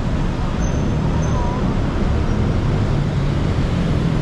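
Motor engine running with a steady low hum under a continuous rushing noise.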